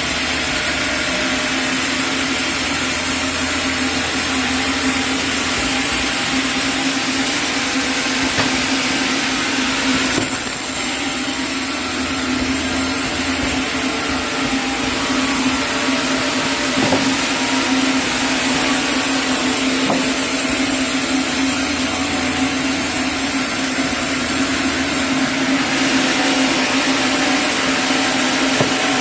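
Sawmill band saw running steadily with a constant hum and a dense hiss, as a chinaberry log is sawn into boards.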